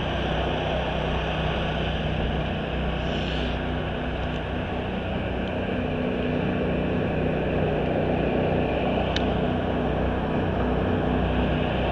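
Steady engine running noise with a low hum, and one sharp click about nine seconds in.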